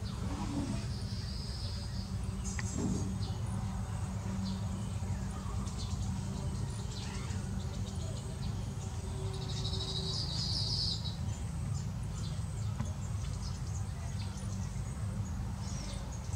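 Small birds, likely baya weavers, give short high chirps, and about ten seconds in one gives a rapid buzzy trill lasting a second or so. A steady low rumble runs underneath.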